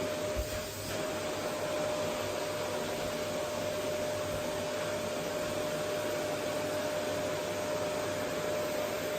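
Vacuum cleaner running steadily: an even rushing of air with a steady motor whine, and a couple of low knocks about half a second in.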